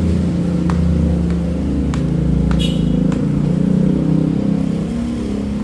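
Car engine running steadily, with a few light clicks over it.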